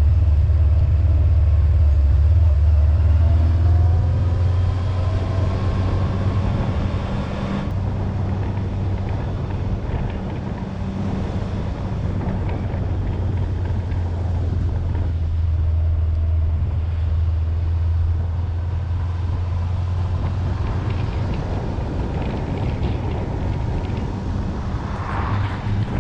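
A motorcycle engine running steadily under way, a deep even hum under a rush of wind noise, with a slight change in the engine note about eight seconds in.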